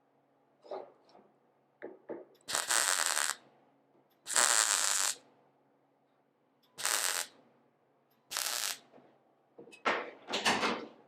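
A welder laying short tack welds on sheet-steel body panels: about five separate bursts of crackling arc, each under a second, roughly every one and a half to two seconds, with small clicks between them.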